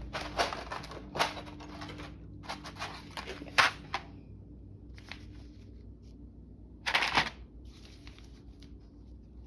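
Paper and small craft pieces being handled: rustling with short clicks and taps, clustered in the first few seconds, then one more rustle about seven seconds in.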